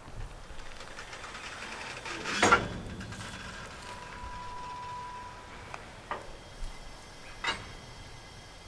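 Freight hopper wagons creeping along the track: a loud metallic clank with ringing about two and a half seconds in, a thin steady squeal a little later, then several sharp metal knocks.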